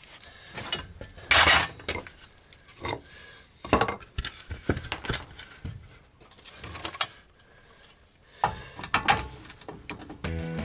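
Metal tools and parts clinking and clanking in irregular handling noises, as a hub-holding tool is fetched and fitted to the wheel for undoing the axle nut. Background music comes in near the end.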